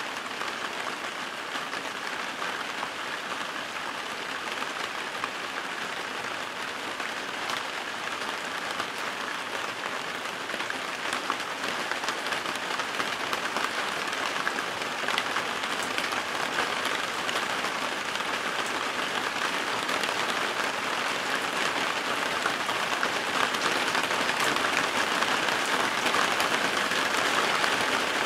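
Steady rain falling, a dense patter of drops that grows a little louder toward the end.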